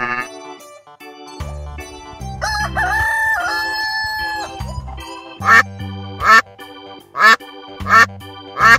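A cartoon rooster crowing once, cock-a-doodle-doo, ending on a long held note, over children's background music with a steady bass line. Near the end come about five short, sharp, loud sounds, roughly one a second.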